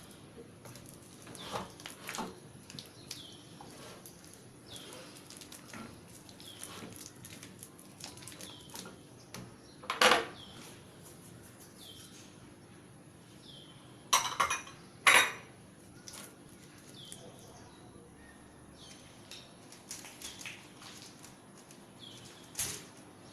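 Kitchen utensil clatter: a metal spatula or spoon scraping and tapping against a pan or tray while the peanut brittle mixture is worked, with four loud clanks, one about ten seconds in and three close together a few seconds later. A small bird chirps repeatedly in the background.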